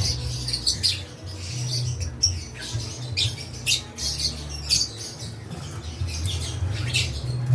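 Lovebirds chattering: many short, shrill squawks and chirps in quick succession, over a low hum.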